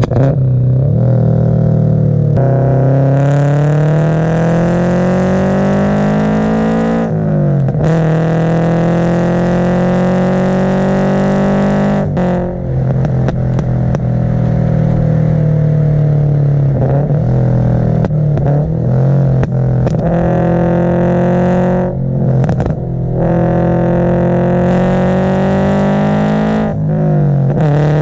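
Scion FR-S's 2.0-litre flat-four engine driven hard, revving up through several gear changes, with sharp cracks and pops from the exhaust on a backfire tune.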